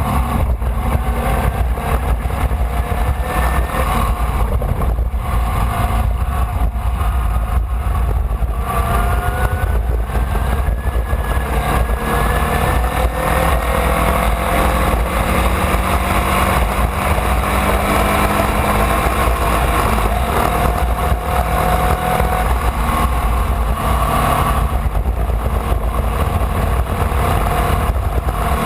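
Formula Vee's air-cooled Volkswagen flat-four engine running hard at racing speed, heard from on board. Its pitch climbs slowly in long pulls, over a constant low rumble of wind and road noise.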